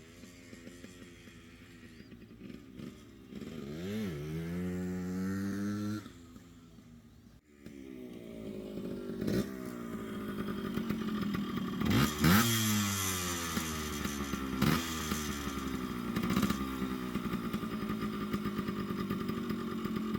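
Yamaha RT100's two-stroke single-cylinder engine being ridden, revving up and down as the bike accelerates and shifts, with a brief break about a third of the way in. It runs cleanly after a carburettor tune-up, and settles to a steady note near the end.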